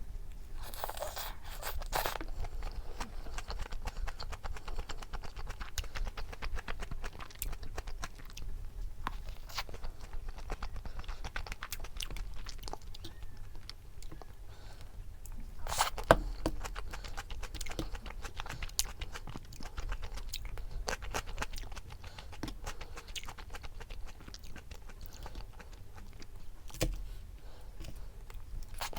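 A person chewing and crunching food, with many small crisp clicks and one sharp click about sixteen seconds in.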